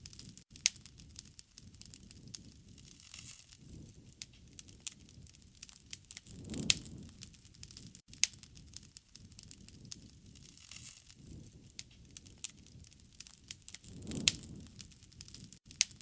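Wood fire crackling, with frequent sharp pops and snaps and a soft low rush of flame that swells up twice, about midway and near the end.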